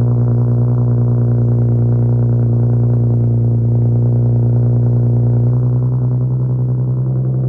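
Infiniti G37's 3.7-litre V6 idling steadily after a cold start, heard through an exhaust with resonated test pipes, a muffler delete and 12-inch resonators: a loud, even, low drone. The idle tone shifts slightly about five and a half seconds in.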